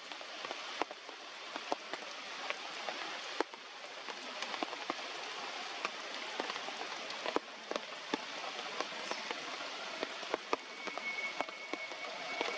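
Heavy rain falling, with many separate drops ticking on nearby surfaces. A thin steady high tone joins in near the end.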